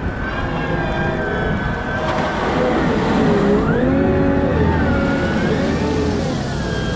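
Cat 972M XE wheel loader working under load: the diesel engine runs with a heavy rumble while several whining tones rise and fall with the machine's effort.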